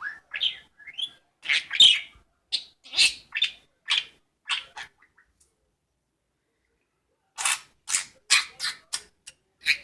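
Pet budgerigar chirping in a string of short, high calls, falling silent for about two seconds midway and then starting up again in a quicker run.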